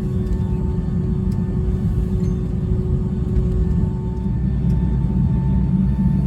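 Steady low rumble of a Boeing 757-200 airliner heard from inside the economy cabin, with a thin steady hum over it that fades about four seconds in.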